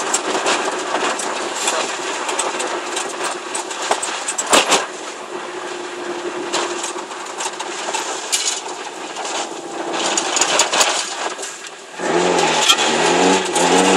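Engine and road noise of a Peugeot 106 with a GTi conversion and a de-catted sport exhaust, heard from inside the cabin while driving, with frequent short knocks and rattles. It gets louder about twelve seconds in.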